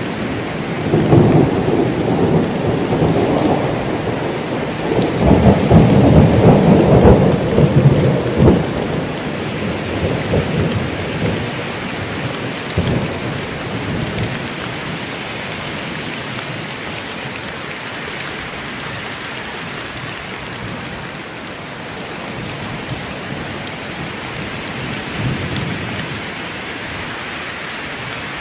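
Steady rain with a long roll of thunder that builds over the first few seconds, is loudest around six seconds in, and then rumbles away, leaving the rain alone.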